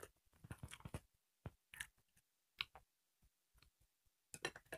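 Faint, scattered mouth clicks and smacks of people chewing rice and sukuti (dried buffalo meat) eaten by hand, busiest in the first second and again near the end.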